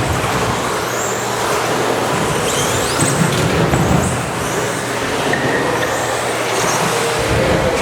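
A pack of electric RC stadium trucks with 13.5-turn brushless motors racing on a carpet off-road track: several high motor whines rising and falling as they accelerate and brake, over a steady din of tyres and drivetrains.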